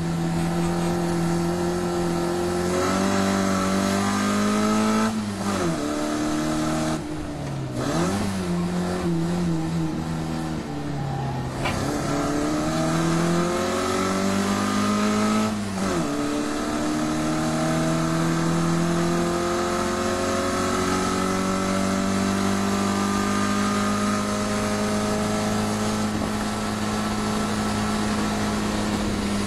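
1380cc A-series four-cylinder engine of a classic Mini Cooper, breathing through a Weber 45 carburettor, running hard under racing load. Its pitch climbs and then drops sharply at gear changes or lifts about five, eight, eleven and sixteen seconds in, followed by a long slow climb that falls away near the end.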